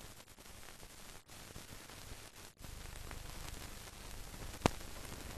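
Steady hiss and crackle of a blank film soundtrack, with one sharp click near the end.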